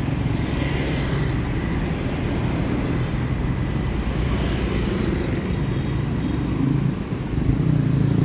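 Street traffic: motorbike and car engines running steadily.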